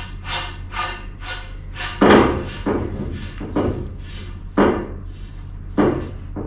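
Metal conduit fittings being worked by hand. For the first two seconds there are rhythmic squeaking, rasping strokes, about two a second, as of a hub being turned onto threaded conduit. Then come several loud metallic clunks, the first and loudest about two seconds in, as parts are knocked and set down. A steady low hum runs underneath.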